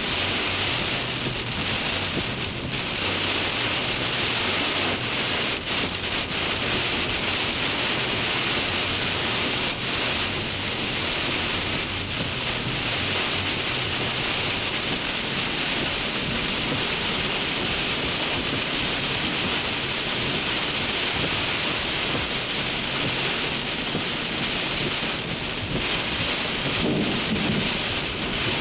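Heavy thunderstorm rain falling steadily: an even, unbroken hiss with a low rumble underneath.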